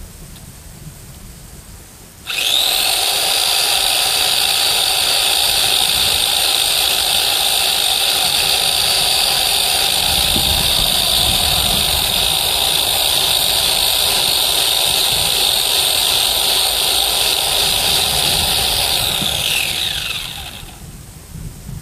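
Electric chainsaw motor starting about two seconds in with a rising whine, running at a steady high pitch for about seventeen seconds, then winding down as it is released.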